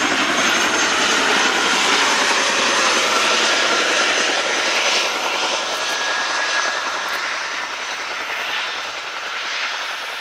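Boeing Chinook tandem-rotor helicopter running close by, its rotors and engines loud at first and slowly fading over the last few seconds.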